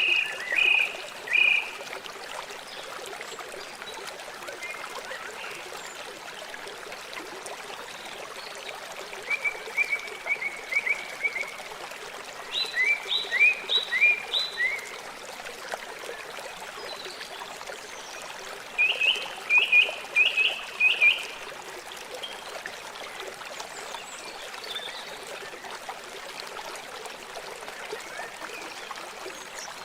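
River flowing, a steady rush of water. Over it come four runs of several quick, high chirps from a small animal, at the start, around ten and thirteen seconds in, and around twenty seconds in; the chirps are the loudest sounds.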